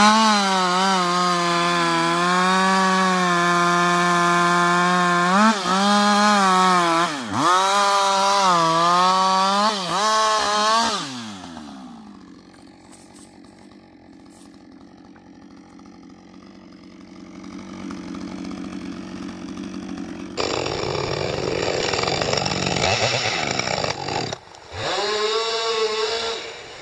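Two-stroke chainsaw running at full throttle and cutting wood, its pitch dipping several times as the chain bogs under load. About 11 seconds in it drops to a low steady idle. It comes back up rougher from about 20 seconds, and near the end it is cutting again with the same load dips.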